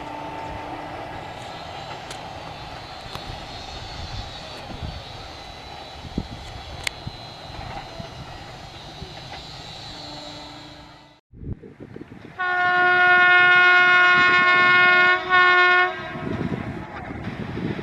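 Indian Railways passenger train running past with a steady rumble of wheels on rail and occasional wheel clicks. After an abrupt cut about eleven seconds in, a locomotive horn sounds loud for about three and a half seconds, dipping briefly near its end, then the rolling rumble resumes.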